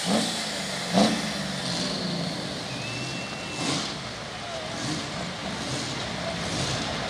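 Diesel pulling truck's engine running steadily, with a few short sharp peaks about a second apart near the start and one more past the middle.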